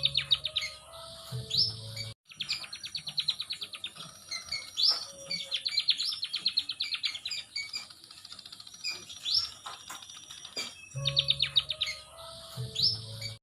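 Munias (burung emprit) singing: fast trills of high chirps and short upward-sweeping calls, repeated over and over, with a brief break about two seconds in. A low hum sits under the song near the start and again near the end.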